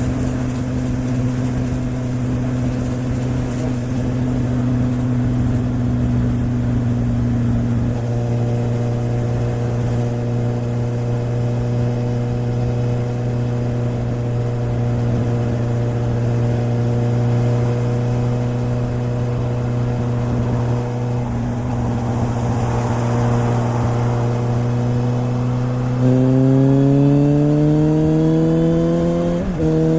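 2013 Suzuki GSR750's inline-four engine running through a Yoshimura exhaust, holding a steady pitch at cruising speed. It revs up and gets louder about four seconds before the end, with a brief dip at a gear change just before the end.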